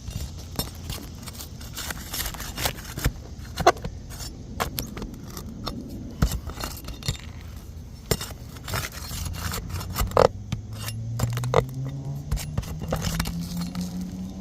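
Metal tools scraping and clicking against asphalt roof shingles, with scattered sharp knocks, as shingles are pried up to get at the nails. A low hum comes in about two-thirds of the way through and rises steadily in pitch.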